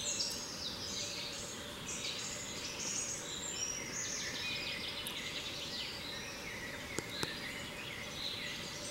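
Several woodland birds singing at once, a busy overlapping chorus of short chirps and sweeping whistles. Two faint clicks about seven seconds in.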